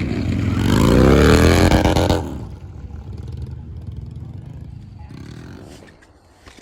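Motorcycle engine revving hard, its pitch climbing and then falling, cut off abruptly about two seconds in; a much quieter background follows.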